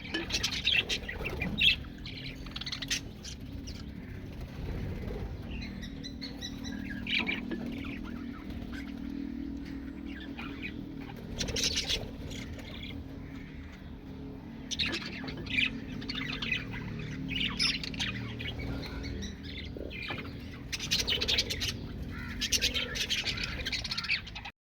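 Parrots squawking and chirping in repeated bursts of harsh calls, over a steady low background hum.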